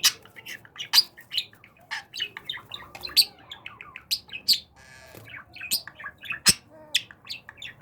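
Pet budgerigar chattering: a quick, irregular run of short, sharp chirps and squawks, with one sharp click about six and a half seconds in.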